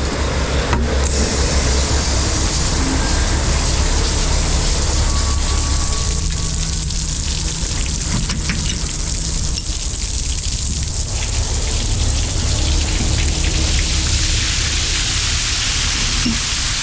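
Truck's diesel engine running steadily under a loud, even rush of water.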